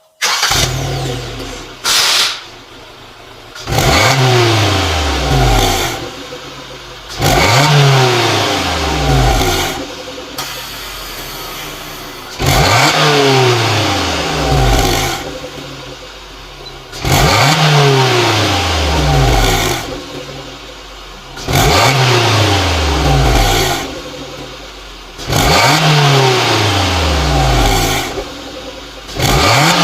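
Suzuki Jimny JB74's 1.5-litre four-cylinder engine running through a Fujitsubo Hi-Mobility aftermarket muffler, its throttle blipped over and over: each rev climbs sharply and falls back to idle, about every three seconds.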